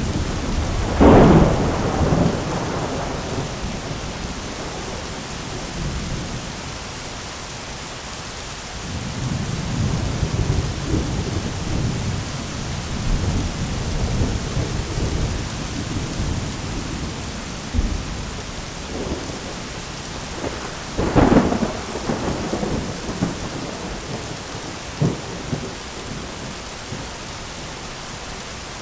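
Thunderstorm with steady rain: a sharp, loud thunderclap about a second in, long low rolling rumbles through the middle, and another loud clap about two-thirds of the way through.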